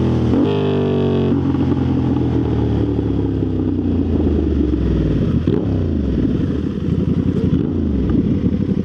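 Motorcycle engine revving up sharply at the start, then winding down as the bike slows, with another brief rise and fall about five seconds in and an uneven low pulsing near the end.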